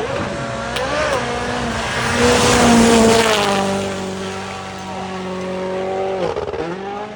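A rally car's turbocharged four-cylinder engine at full throttle as the car passes at speed. The pitch steps with quick gear changes, the sound is loudest with a rush of tyre and gravel noise as it goes by, and the engine note drops sharply near the end.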